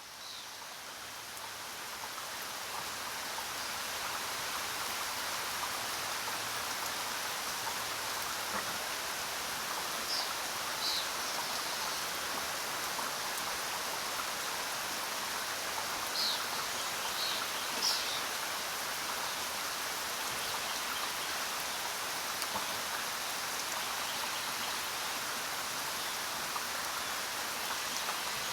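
Steady rain falling, swelling up over the first few seconds and then holding even. A few brief high bird chirps sound over it near the middle.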